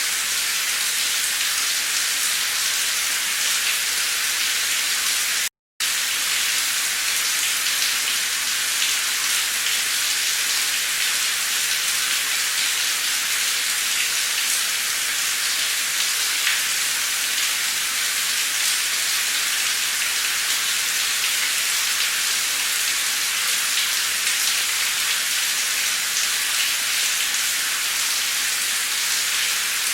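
Heavy, torrential rain pouring down in a steady, even hiss, with one brief dropout to silence about five and a half seconds in.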